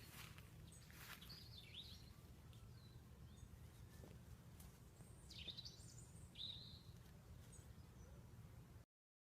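A few faint, high bird chirps over a steady low hum, cutting off abruptly near the end.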